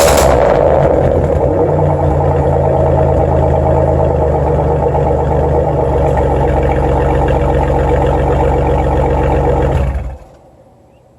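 1998 Oldsmobile 88's 3.8-litre V6 through a straight-pipe exhaust with only a resonator and a hollowed-out catalytic converter, no muffler, dropping back from a rev with a brief crackle and then idling steadily. About ten seconds in the engine is switched off and the sound stops abruptly.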